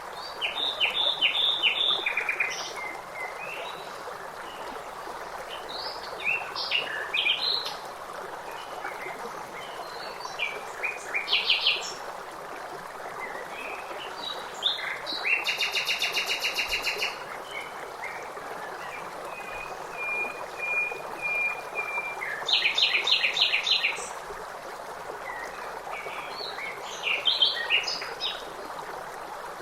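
Several songbirds singing and chirping in short phrases over a steady wash of running water. About halfway through comes a rapid, even trill lasting a second or two.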